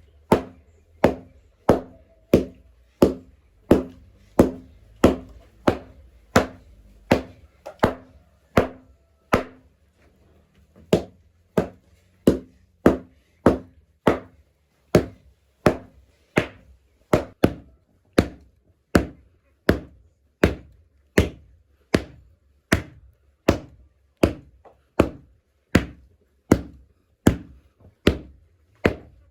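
Repeated hard blows of a hand tool, about two a second, each a sharp chop-like strike, with a brief pause about ten seconds in.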